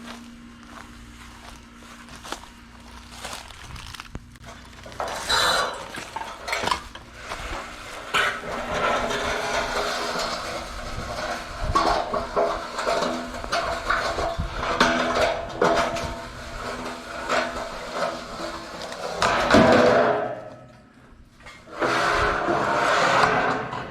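Scrap metal pieces clanking and clattering as they are handled, over a steady low hum, with a brief lull about twenty seconds in.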